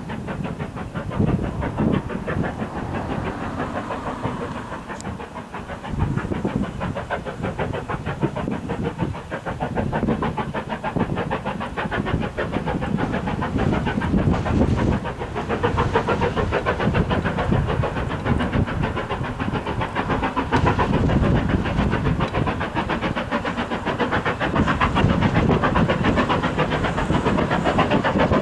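Steam locomotive working hard, its exhaust beating in a rapid, even rhythm that grows louder as it approaches.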